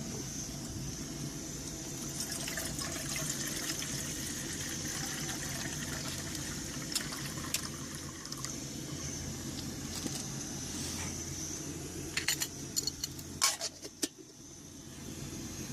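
Coleman 533 dual-fuel stove burning with a steady rushing hiss, heating water for a brew. A few sharp clinks come about twelve to fourteen seconds in.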